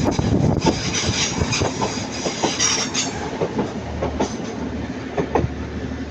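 Train passing on the line, its wheels clicking over rail joints about twice a second over a steady rumble that fades as it moves away.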